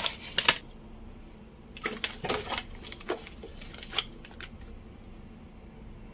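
Packaged items being handled and set into a refrigerator: plastic packaging rustling and light clicks and knocks in short clusters, the loudest about half a second in and around two seconds in.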